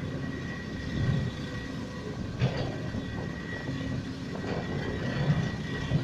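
Steady vehicle rumble with a thin high steady tone running through it and a few short knocks.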